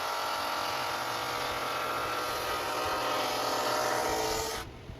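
Electric sander running on a pine blank for about four and a half seconds, then switched off and spinning down.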